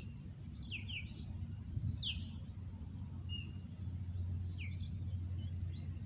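Birds chirping: a few short, falling chirps spaced a second or so apart, over a steady low background hum.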